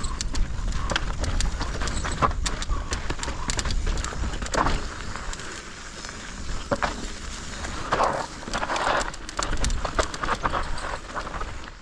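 Mountain bike rattling and clattering over a rough trail, with many irregular clicks and knocks from the tyres and frame, over a steady low rumble.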